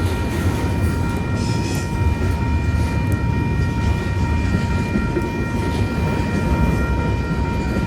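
A train passing on the rails, a steady, continuous sound with a set of faint steady high tones above it, under heavy wind noise on the microphone.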